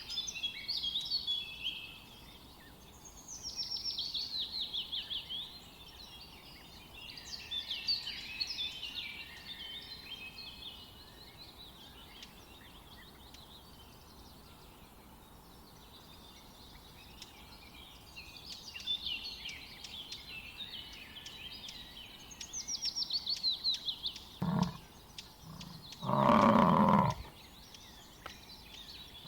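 Songbirds singing in repeated trilled phrases, several of them falling in pitch, in bouts of a few seconds with pauses between. Near the end, a short loud animal call is followed by a longer one of about a second.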